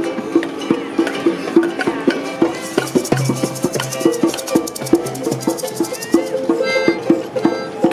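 Procession music on struck junk percussion: ringing metallic clanks in a steady beat of about three a second. A low drone joins about three seconds in, and a brief pitched tone sounds near the end.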